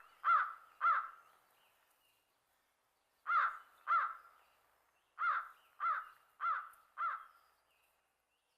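Crow cawing: two caws, a pause, two more, then four in a row about half a second apart.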